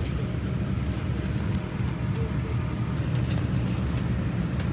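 Steady low rumble of a vehicle or aircraft interior, with a few faint clicks.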